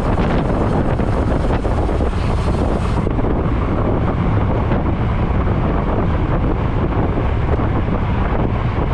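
Wind buffeting the microphone of a camera riding along on a moving road bike, a steady loud rush.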